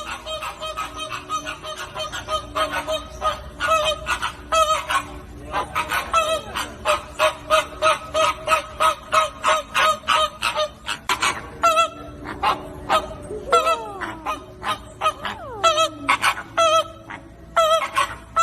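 A flock of flamingos honking: many short goose-like calls in quick succession, several a second and overlapping, with a few longer calls sliding down in pitch in the second half.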